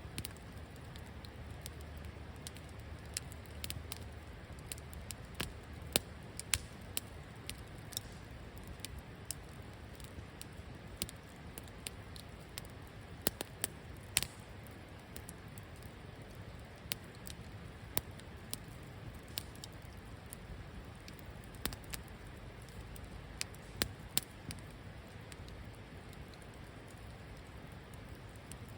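Wood campfire burning in a fire pit, crackling with irregular sharp pops and snaps over a steady soft hiss.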